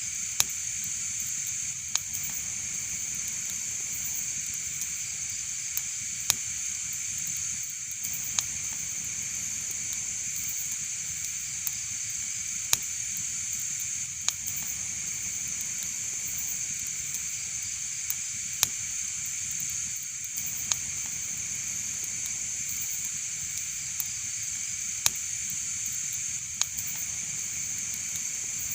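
Fireplace fire burning with a steady hiss and sharp single crackles and pops every second or two. The pattern of pops repeats about every six seconds, as in a looped recording.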